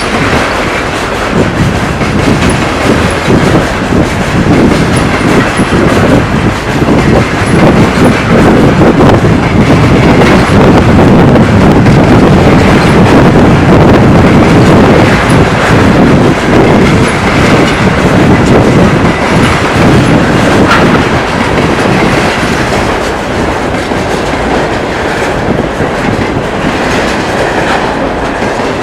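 Container freight train rolling past at speed, its wagon wheels clattering over the rail joints in a continuous clickety-clack, loudest about halfway through and easing off towards the end.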